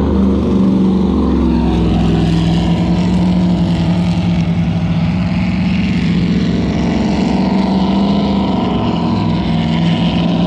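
Motorboat engine running steadily at speed, with rushing water and wind noise.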